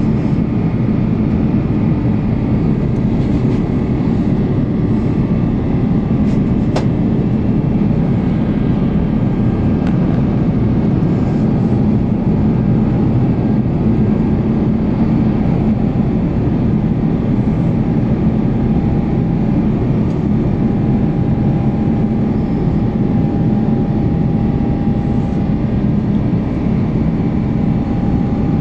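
Cabin noise inside an Airbus A350-900 airliner shortly after takeoff: a loud, steady roar of its Rolls-Royce Trent XWB engines and rushing air, with a low hum under it. A single short click sounds about seven seconds in.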